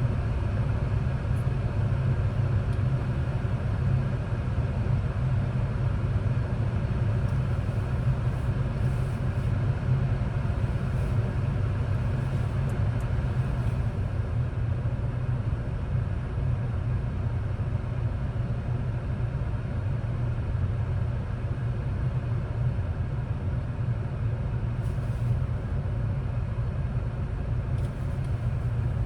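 Steady low rumble of a car being driven, engine and road noise, with no sudden events.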